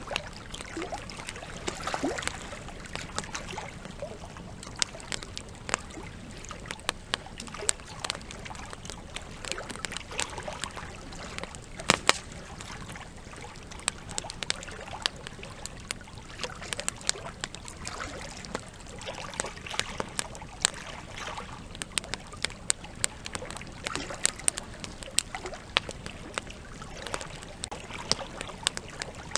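Campfire crackling with many sharp irregular snaps, the loudest about twelve seconds in, over the steady rush of a flowing river.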